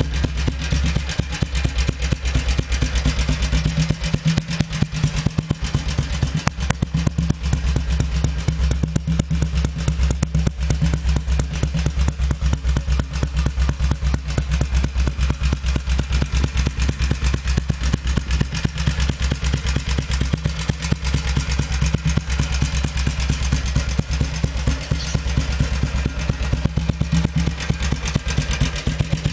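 Junak M10 motorcycle's single-cylinder four-stroke engine idling steadily with a deep, bassy exhaust beat, still running well at 40,000 km since its restoration.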